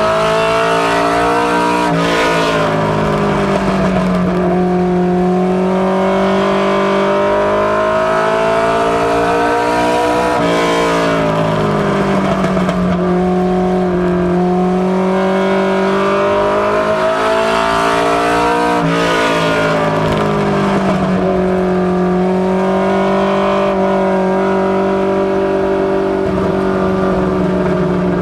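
Ford Mustang LX notchback ministock's engine running hard through practice laps on an oval: the engine note climbs steadily along each straight, then drops sharply as the throttle comes off for the turns, repeating about every eight to nine seconds.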